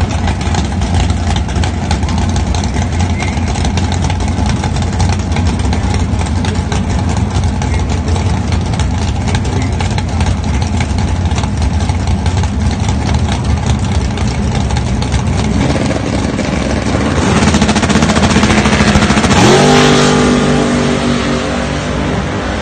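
A 1968 fastback drag car's engine idles with a choppy, even beat at the starting line. About 16 seconds in it gets louder as the car launches, its pitch sweeps up as it accelerates down the strip, and it fades near the end.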